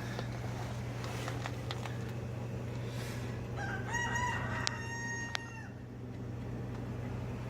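A rooster crows once, about two seconds long, starting a little past the middle, over a steady low hum. Two sharp clicks sound during the crow.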